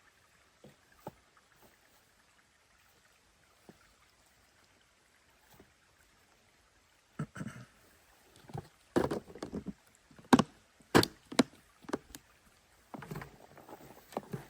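Quiet at first with a few faint clicks, then from about halfway a run of sharp, irregular knocks and clunks, like hard objects being handled and set down.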